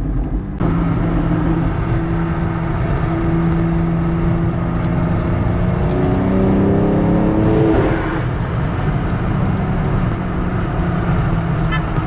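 BMW M car's engine under way: it comes in louder just after the start, holds a steady note, then climbs in pitch for about two seconds and drops at a gear change about eight seconds in, over road noise.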